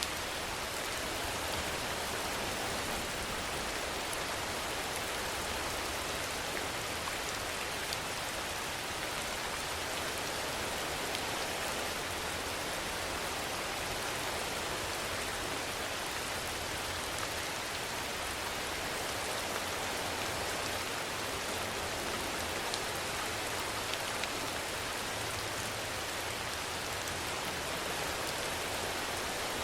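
Steady rainfall hissing on a surface, with a few faint separate drop ticks.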